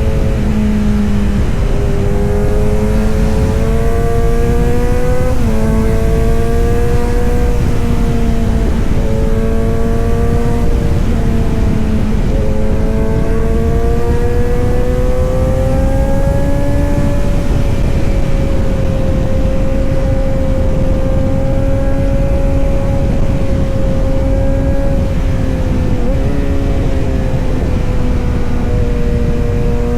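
Kawasaki Z900 inline-four motorcycle's exhaust running steadily. The engine note slowly climbs and sinks in pitch, with a few brief sudden dips.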